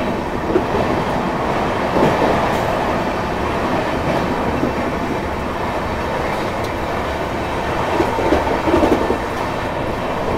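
Gatimaan Express running at about 160 km/h: a steady loud rush of wind and wheel-on-rail noise, with clickety-clack from the track. Louder patches of clatter come about two seconds in and again around eight to nine seconds.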